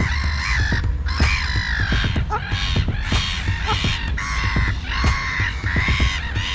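Birds giving a string of loud calls, about seven in a row, each under a second long, over a steady low rumble.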